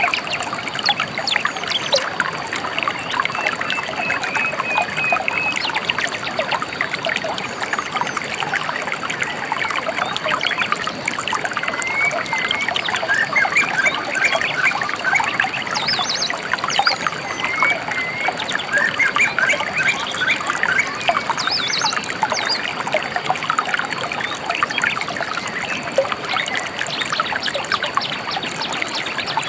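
Shallow river trickling and splashing steadily, with small songbirds chirping over it in short chirps and twittering phrases, a few higher, sharper calls about halfway through.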